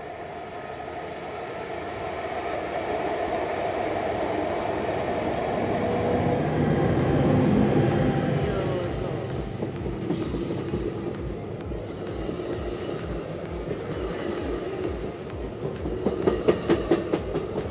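Diesel-hauled exo commuter train with bilevel coaches passing close by. Its rumble builds to its loudest about 7–8 seconds in, then the coaches roll past, with a quick run of wheel clicks over the rail joints near the end.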